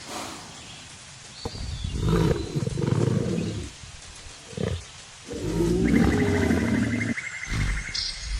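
Lion roaring: two long, deep roars with a short grunt between them, and another roar starting near the end.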